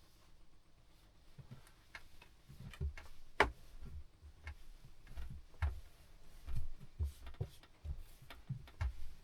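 Irregular light knocks and clicks of objects being handled, with one sharper click about three and a half seconds in.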